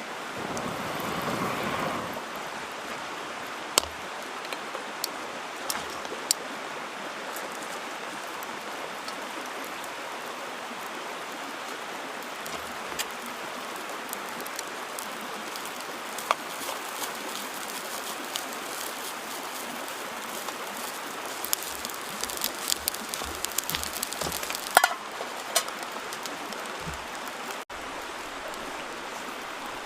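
Steady rush of a mountain stream, with scattered sharp clicks that come thicker near the end.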